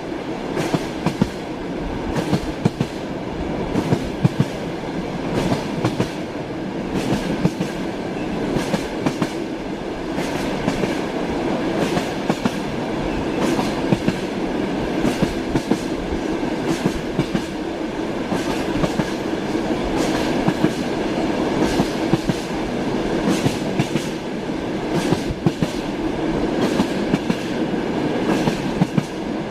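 Train wheels running on rails, with a continuous rumble and a steady hum, broken by frequent sharp clacks, several a second, as the wheels pass over rail joints.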